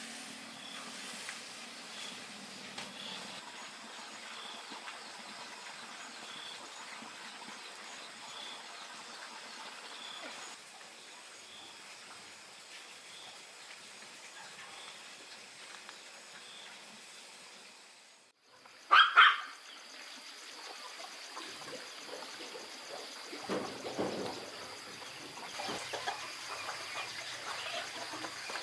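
Chickens in the background, with a steady low hiss and faint regular ticks for the first two-thirds. After a brief dropout a hen gives a short, loud double squawk, and uneven clucking follows toward the end.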